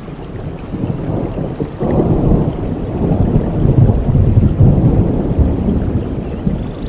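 Rolling thunder rumbling over steady rain, swelling suddenly about two seconds in and easing off near the end.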